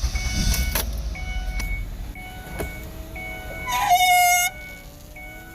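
A car's dashboard warning chime dinging about once a second. A louder, shorter tone sounds about four seconds in, and a low motor whine rises slowly in pitch near the end.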